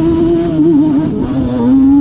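Yamaha Banshee 350's two-stroke twin, bored out with a Cheetah 426 big bore kit, running hard at high, fairly steady revs. Its pitch wavers and dips slightly about a second and a half in.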